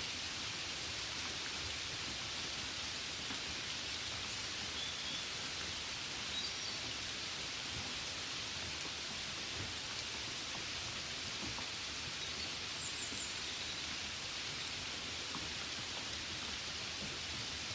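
Steady gentle rain falling on a window, an even hiss. A few faint, short, high chirps come through about six seconds in and again near thirteen seconds.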